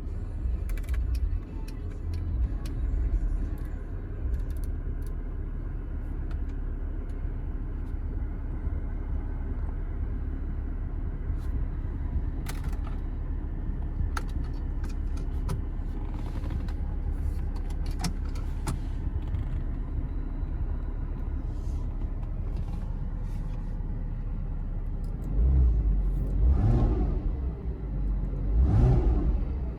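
2009 Porsche Boxster S's 3.4-litre flat-six engine idling steadily, then revved twice near the end, each rev rising and falling quickly.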